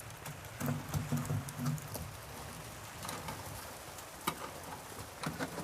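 Snow pattering on the tent's fabric walls, a light irregular ticking over a steady hiss.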